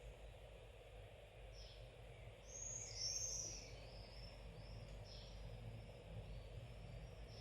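Birds calling: short, high, downward-sliding chirps every few seconds and a louder warbling phrase about three seconds in, over a low steady hum.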